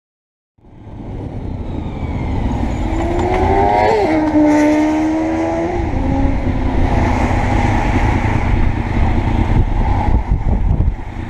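Honda VFR's V4 engine under way at speed, heavy wind rush over the helmet-mounted camera. The engine note rises, drops sharply at a gear change about four seconds in, then holds steady.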